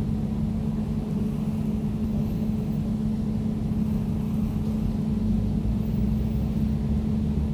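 Air conditioner running steadily: an even low rumble with a constant droning hum.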